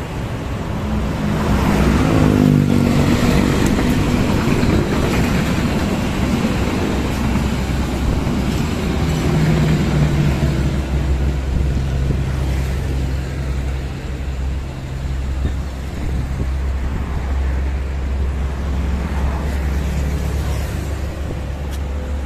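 Diesel locomotive hauling a passenger train approaching and passing close by. Its engine note drops in pitch as it goes past about two seconds in, followed by the continuous low rumble and wheel noise of the coaches running by.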